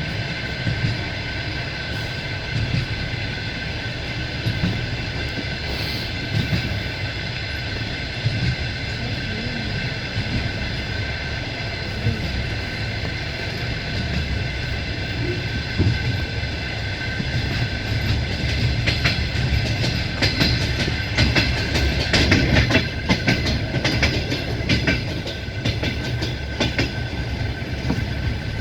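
Passenger train running at speed, heard from a carriage window: a steady rumble with a steady high-pitched whine over it. The wheels clatter over rail joints, a run of sharp clicks that thickens in the second half.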